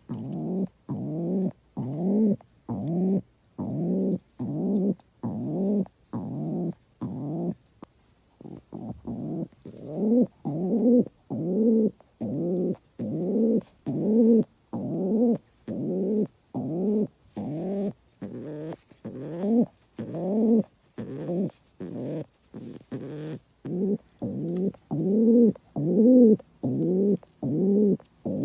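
A bird calling in a long, regular run of short, low, arching notes, about one and a half a second, with a brief irregular stretch about eight seconds in.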